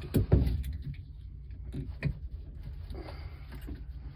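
A few small handling knocks and clicks, two close together just after the start and another about two seconds in, over a low steady hum.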